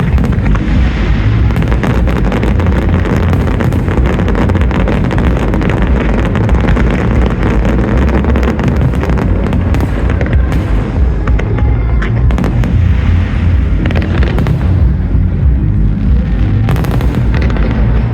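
Fireworks display at full intensity: a continuous, loud barrage of crackling and popping over deep, rumbling booms.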